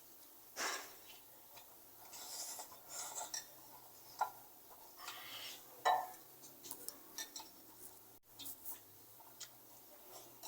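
Faint, scattered clinks and clicks of cutlery and dishes being handled, a few sharper knocks among them.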